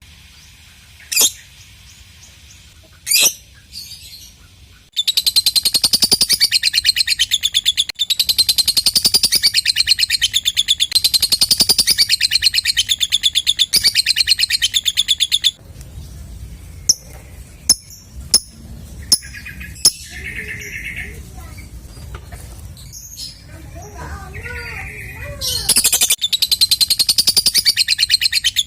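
Lovebird giving its long 'ngekek' song: a fast, rattling chatter of high chirps that runs for about ten seconds after a few single sharp calls. It breaks off into scattered sharp chirps and softer calls, then the rapid chatter starts again near the end.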